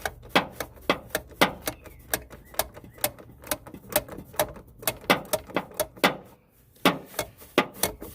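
Socket ratchet clicking in uneven runs of sharp clicks as it backs out the blower motor's small mounting bolts, with a brief pause a little past six seconds in.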